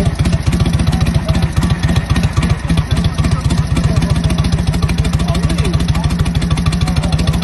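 Harley-Davidson WLA's 45-cubic-inch flathead V-twin engine idling steadily, a loud, even, rapid beat.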